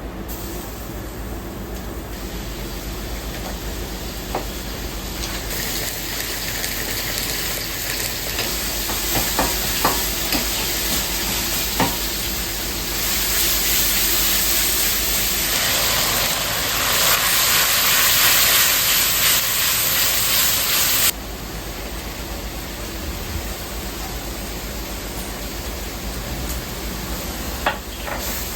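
Food sizzling in a hot pan, the hiss swelling to a loud peak and then stopping abruptly about three quarters of the way through. A few sharp knocks sound in the middle and again near the end, over a steady low kitchen hum.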